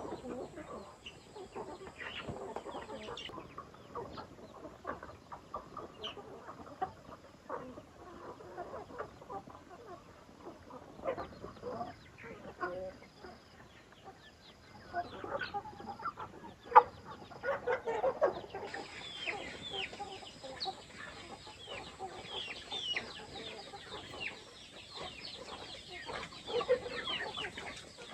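Chickens clucking and calling, with many high chirps in the later part and a sharp knock about seventeen seconds in.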